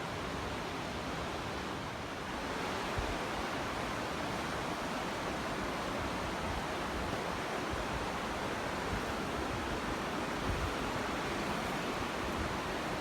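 Steady rush of falling water, an even unbroken noise, with a few faint low thumps of wind on the microphone.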